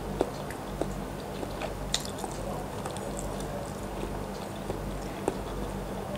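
Close-miked chewing of a bite of chicken embryo egg, closed-mouth, with scattered wet mouth clicks over a steady low hum.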